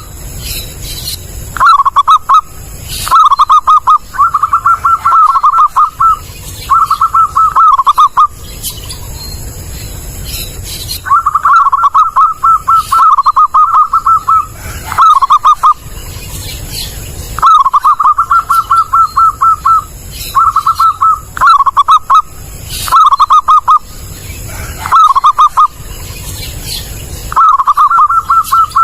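Zebra dove (perkutut) cooing: phrases of quick, rippling notes, each a second or two long, repeated over and over with short gaps.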